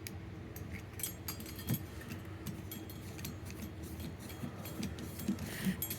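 Light metallic clicks and clinks of small screws and a screwdriver being handled while reassembling a wood stove fan, scattered irregularly over a steady low hum.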